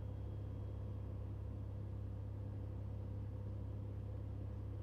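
Steady drone of a Cessna 182L Skylane's Continental O-470 engine and propeller running through the descent on base leg, heard in the cabin. A deep, even hum with faint steady higher tones over it.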